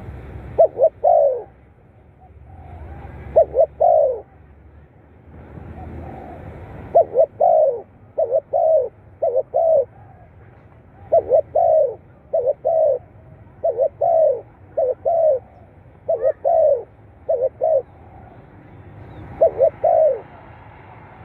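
Spotted dove cooing: short phrases of two or three low coos, repeated about a dozen times with brief pauses between them.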